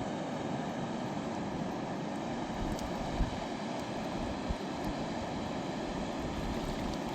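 Steady rushing of a fast mountain river, with two brief low thumps about three seconds in and again a little over a second later.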